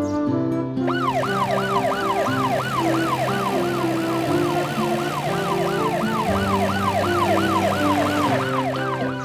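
Cartoon ambulance siren wailing in quick rising-and-falling sweeps, about three a second, over a backing tune of held low notes.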